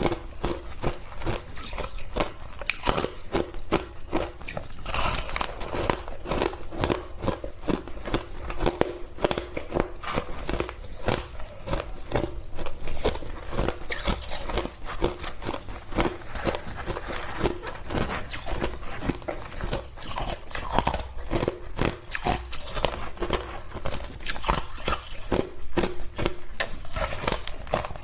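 A person biting and chewing hard shaved ice close to the microphone: a dense, irregular run of sharp crunches and crackles, several every second.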